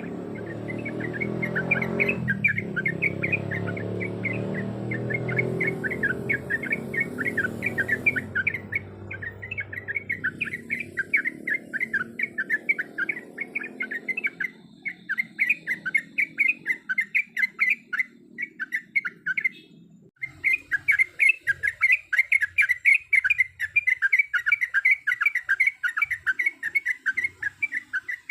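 Sooty-headed bulbul (trucuk) singing a fast, continuous run of short repeated chirping notes, several a second, broken by a short gap about 20 seconds in. A low background rumble sits under the first half and fades out.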